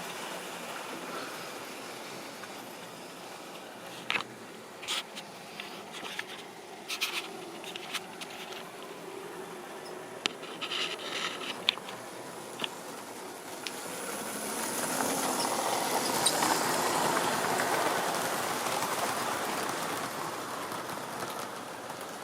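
Model railway train running on its track, the wheels and motor making a steady rolling noise, with a scatter of sharp clicks over the rail joints. About fourteen seconds in it grows louder as it passes close by, then fades away.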